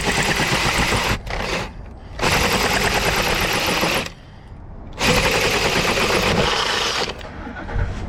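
Handheld power tool running in three bursts of about one to two seconds, with a fast rattling chatter, as it cuts into a steel door for a deadbolt prep.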